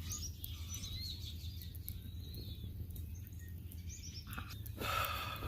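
Songbirds chirping and singing, many short high gliding notes over a steady low rumble of outdoor background noise, with a brief louder, harsher sound near the end.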